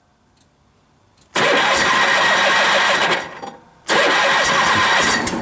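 Cold Honda H4514 lawn tractor's liquid-cooled twin-cylinder engine being cranked by its electric starter in two bursts of about two seconds with a short pause between, without catching.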